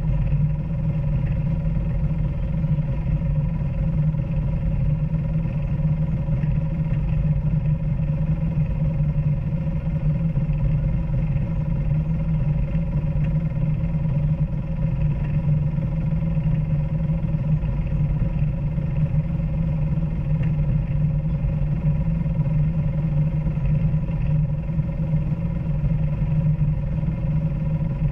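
Off-road vehicle engine running steadily at an even speed while trail riding, a constant low drone with no revving.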